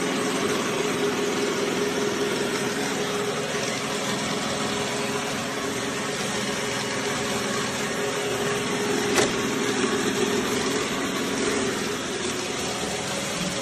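A machine running steadily with an even whirring noise and a low hum, and one short click about nine seconds in.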